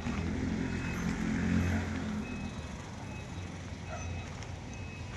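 Truck diesel engine running, with a reversing alarm beeping on and off about once a second. The engine is loudest in the first two seconds or so.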